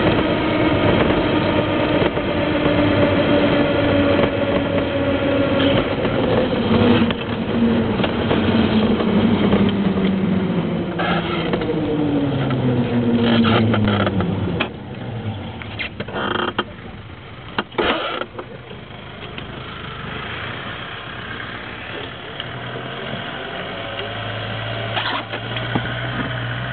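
Vehicle rolling fast down a wet road, with a steady spray-and-wind noise and a whine that falls in pitch from about six to fourteen seconds in as it slows. It then turns quieter, with a few knocks and a low steady hum.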